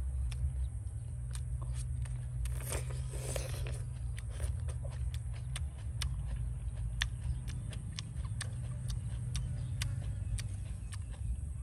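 Close-miked chewing with wet mouth clicks and lip smacks, a louder stretch of chewing about three seconds in, over a steady low rumble.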